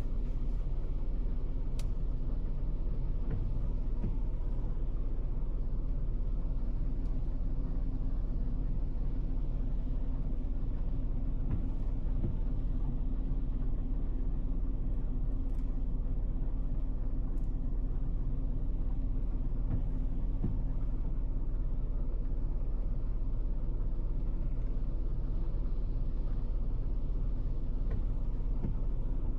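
Steady low rumble of a car driving on the road, engine and tyre noise with no changes in pace.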